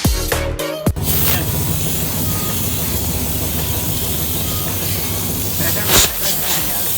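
A high-pressure jet hissing steadily over a low machine hum, with a brief louder blast about six seconds in, while the dusty air filter of a TVS Jupiter scooter is cleaned.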